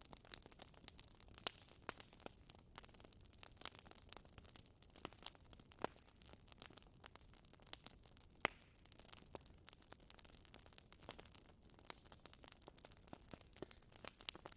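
Wood fire in a fireplace crackling: faint, irregular sharp pops and snaps over a low hiss, the loudest pop about eight and a half seconds in.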